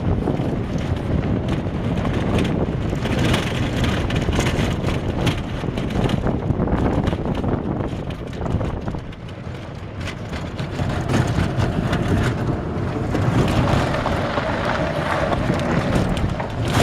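1960 Tee Bird golf cart running on 48-volt battery power and being driven, with rattling and wind buffeting the microphone. It eases off briefly about halfway through, and a faint steady whine comes in near the end.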